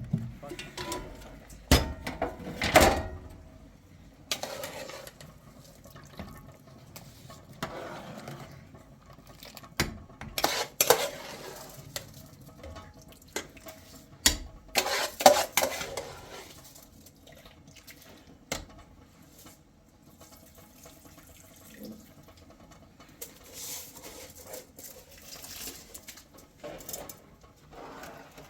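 Kitchen handling sounds: dishes, pots and utensils knocking and clinking now and then, with short noisy swells between them.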